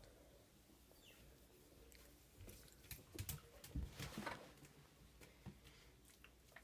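Near quiet: faint mouth and nose sounds from a dog with allergies, soft clicks scattered through and a short breathy burst about four seconds in.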